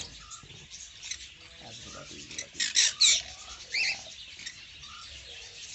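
Caged aviary birds chirping continuously, with a few loud, shrill calls about halfway through.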